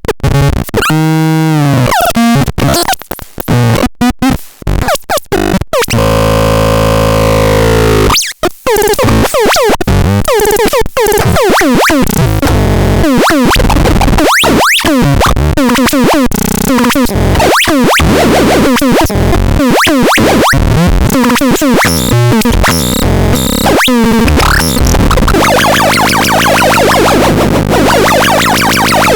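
Megastron Scrapton S1 electronic sound device making harsh, chaotic synthesized noise: choppy stop-start bursts for the first few seconds, a long falling glide, then sweeping pitches that give way to a dense buzzing texture over a low pulse near the end.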